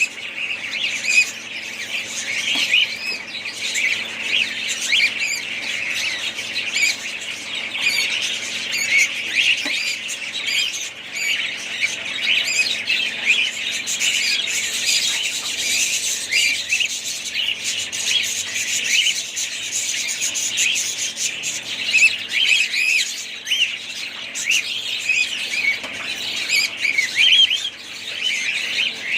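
A flock of budgerigars chattering nonstop, many birds chirping and warbling over one another in a dense, steady chorus.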